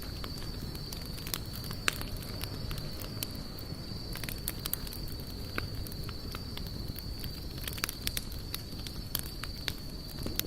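Wood campfire burning, with irregular sharp crackles and pops over a low rumble of flame, and a steady high-pitched tone running underneath.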